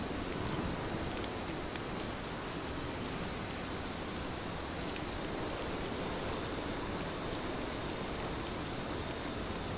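Heavy rain falling steadily on a surface, a dense even hiss with scattered drop ticks.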